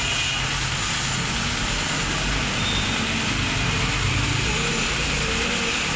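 A motor running steadily under a constant hiss, with a low hum underneath.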